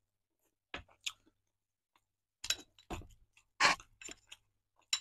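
Close-up chewing of a mouthful of soft potato and zucchini casserole: a scattering of short, wet mouth clicks and smacks, with a longer one about three and a half seconds in.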